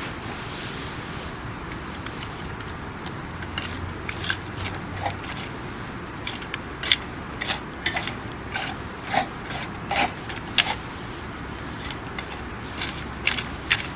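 Wood campfire crackling, with sharp, irregular pops and snaps that start a few seconds in and come several to a second at times.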